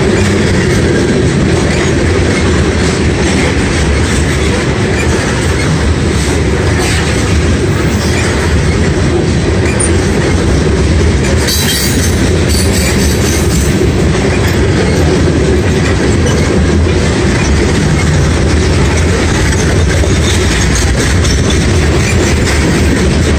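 Freight train of covered hopper cars rolling past: a loud, steady rumble of steel wheels on the rails.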